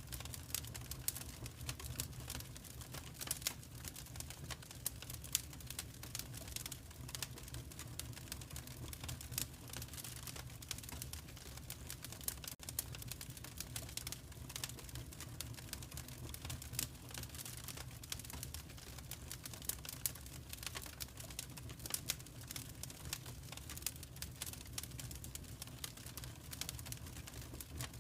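Wood fire crackling in a fireplace: a dense, irregular patter of small sharp pops and snaps over a low, steady rumble.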